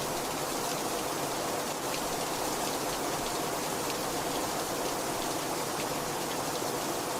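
Heavy rain falling steadily, a dense even hiss with faint individual drops pattering through it.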